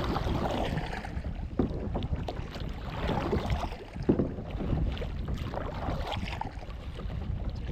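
Water splashing and sloshing around a paddle board, with wind rumbling on the microphone and a few sharp knocks.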